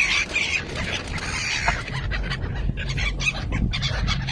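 A flock of birds feeding on scattered popcorn, giving short chirps and calls among scattered clicks, over a steady low rumble.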